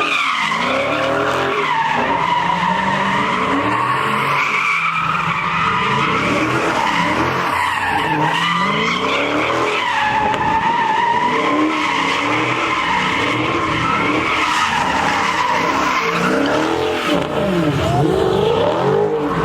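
Car tyres squealing in one long continuous skid, the pitch of the squeal wavering, with the engine revving up and down underneath.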